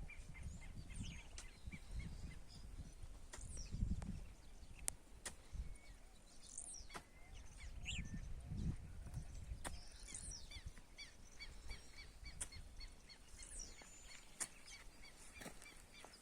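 Birds chirping and calling at intervals, some with quick rising and falling notes, with a repeated short note in the background. Low rumbles come and go underneath.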